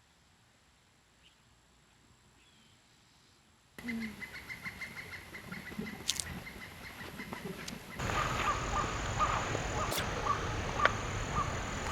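Birds calling: a few faint chirps over near-quiet at first. About four seconds in, the sound jumps abruptly louder with a fast run of repeated calls. It changes again about eight seconds in to another rapid series of calls.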